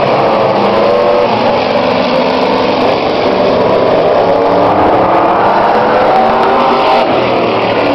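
Several demo trucks' engines running at once on a race track, their pitch rising and falling as they rev through the laps.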